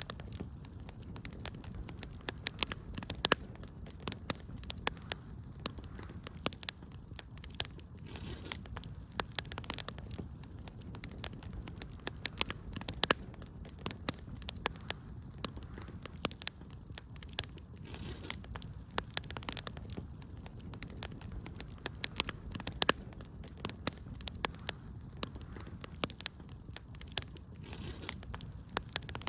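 Wood fire crackling steadily, with frequent sharp irregular pops and snaps over a low rushing burn.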